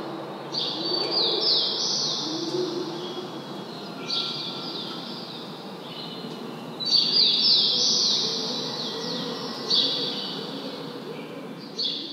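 A bird singing about five short phrases, each a quick run of high falling notes, a few seconds apart, over steady low background noise.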